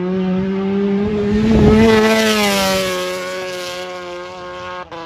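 MotoGP racing motorcycle engine running close by, its note climbing in pitch and loudness to a peak about two seconds in, then easing down as it passes, with a short break near the end.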